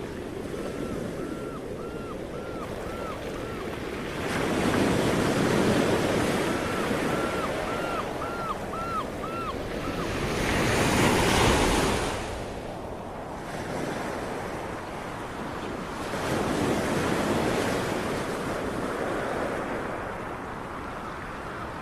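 Sea waves breaking on a shore, the surf swelling into a louder rush about every six seconds over a steady wash. Twice in the first half, a quick run of short, high chirps repeats about three times a second.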